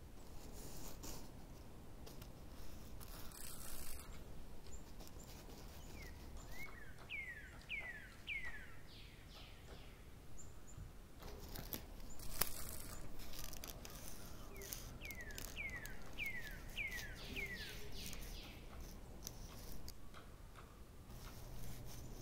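A bird singing faintly, twice giving a quick run of about five downward-sliding whistled notes, with scattered soft clicks between.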